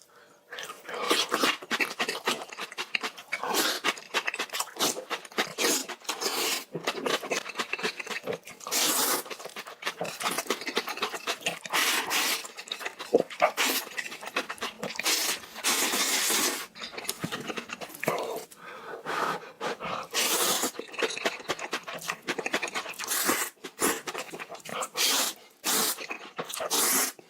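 Close-miked eating sounds: wet chewing and crunching through a big mouthful of kimchi, in irregular bursts with short pauses.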